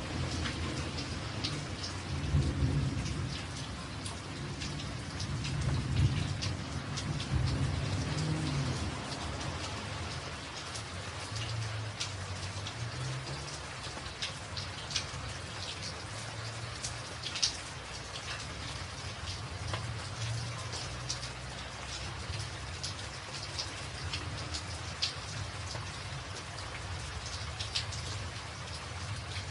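Steady rain drumming on a tin roof, with many sharp individual drop taps. A low rumble of thunder rolls through the first several seconds and swells faintly again a few times later.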